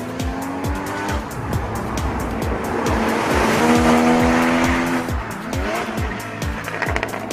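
Porsche Cayman GTS's 3.4-litre flat-six engine revving hard under acceleration. Its pitch climbs to the loudest point about four seconds in, then drops and rises again around five to six seconds in. Background music with a steady beat plays underneath.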